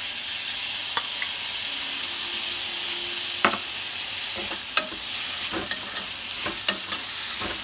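Chopped tomato and browned onions frying with a steady sizzle in hot oil in a kadhai while being stirred, with several sharp clicks of the stirring utensil against the pan.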